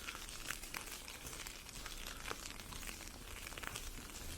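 Snow and ice pellets hitting an umbrella canopy overhead: a faint steady hiss dotted with many small, sharp ticks.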